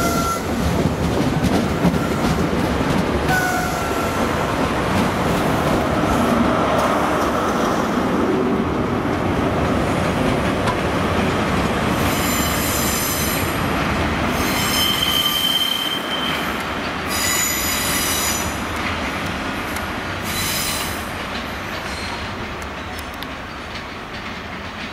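High Speed Train with Class 43 diesel power cars pulling away: steady rolling and engine noise. From about halfway come four bouts of high-pitched wheel squeal as it runs over the curved track, and the sound fades as the train moves off.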